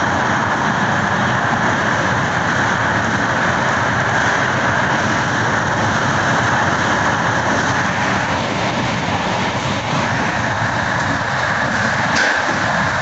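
Passenger train running at speed through a tunnel, heard from inside a coach: steady wheel-and-rail noise. A brief sharp click comes near the end.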